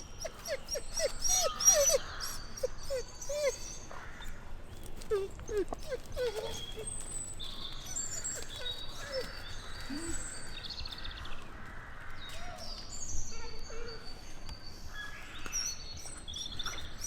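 European grey wolf whining: several runs of short, high, rising-and-falling whimpers, densest in the first few seconds and again around five seconds in, with birds chirping high above.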